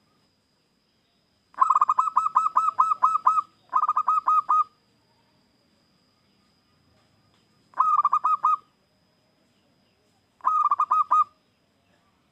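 Zebra dove (perkutut) singing: four phrases of rapid repeated cooing notes. The first phrase is the longest, and the others come a few seconds apart.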